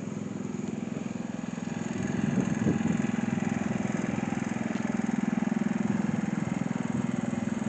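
Tractor engine running steadily at a fast even beat, a little louder from about two seconds in.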